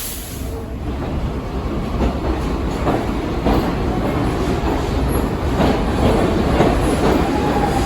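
New York City subway train on the Lexington Avenue line running through the station, a steady rumble with wheels clicking over the rail joints, growing louder.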